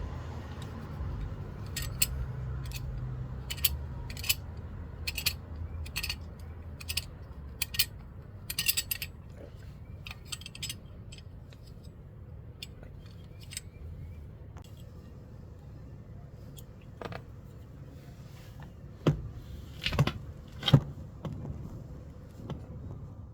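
Small metal parts and tools clicking and clinking as they are handled, a run of sharp clicks about two a second for several seconds, then a few louder knocks near the end, over a low rumble that fades early on.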